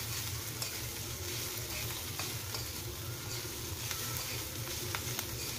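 Chopped garlic, onion, ginger and long green chili sizzling in hot oil in a metal wok while being stirred, the metal utensil ticking and scraping against the pan now and then.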